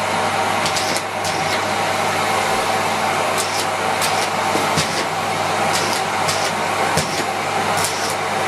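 Miele Complete C3 canister vacuum cleaner running steadily at suction, a constant motor hum and airflow rush, with scattered short clicks and rattles.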